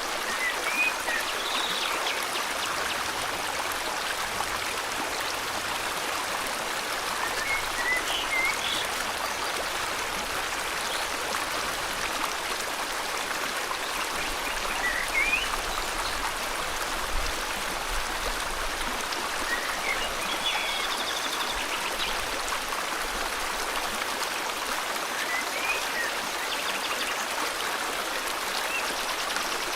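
River water flowing steadily, with a bird chirping short, rising notes every few seconds.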